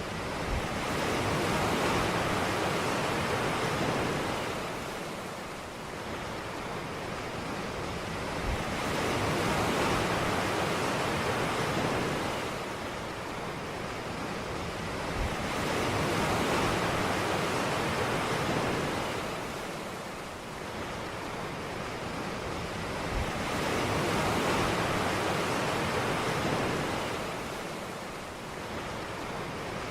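Ocean surf on a beach: waves breaking and washing in, swelling and fading about every seven seconds, four surges in all.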